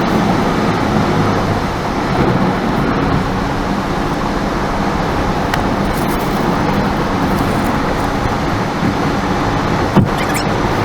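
Car driving on the road: a steady rush of tyre and road noise with a low engine hum, and one short knock near the end.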